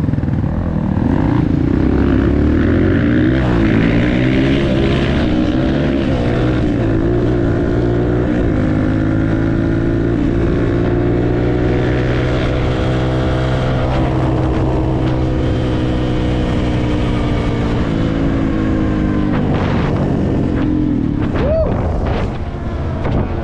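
Dirt bike engine running while riding, its pitch slowly rising and falling with the throttle.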